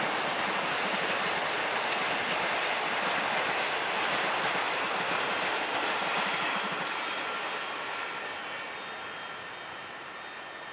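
A passing train runs by with a steady rushing noise, then fades from about seven seconds in as it moves away.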